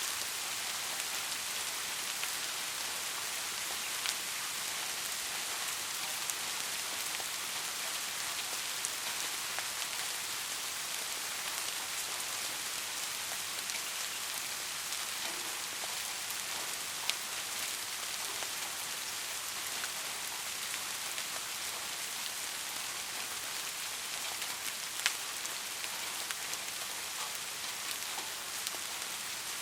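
Steady rain falling, a dense even hiss with now and then a single louder drop tick.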